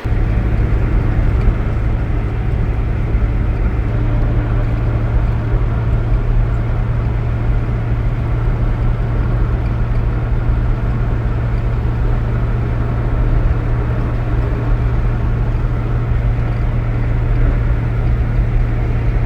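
An engine running steadily at constant speed, with a steady low hum and rumble.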